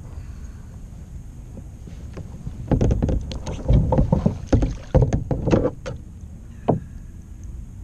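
Splashing and knocking against a kayak in a quick irregular run from about three to six seconds in, with one more knock near the end: a hooked channel catfish thrashing at the side of the boat while it is being landed.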